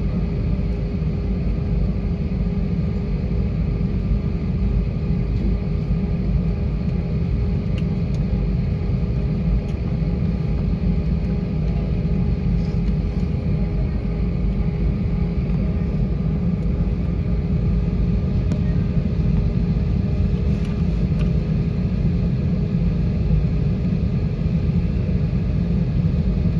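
Steady cabin drone inside an Airbus A320-232: a low rumble from its running IAE V2500 engines and airflow, with a steady hum under it. The level holds even throughout.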